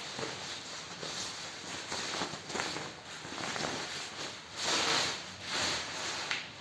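Repeated rubbing swishes on a freshly clipped, near-bald scalp, several in a row, the loudest a little before and after five seconds in.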